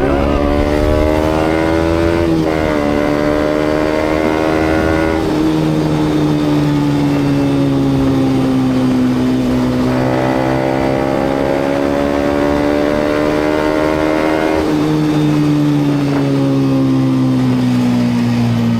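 Yamaha MT-125's single-cylinder four-stroke engine running through a GPR aftermarket exhaust while riding. The revs climb, dip briefly about two seconds in, then rise and fall slowly and ease off near the end, over road and wind noise.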